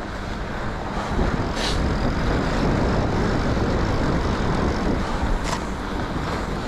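Riding noise from a mountain bike on 2.8-inch tyres rolling over groomed, packed snow: a steady rumbling hiss, with two short, sharper hisses.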